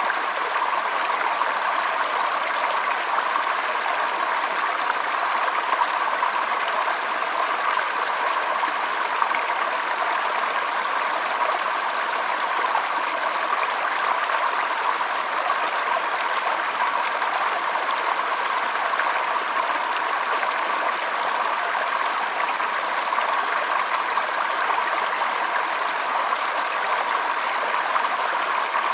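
Stream water flowing and splashing steadily, without a break.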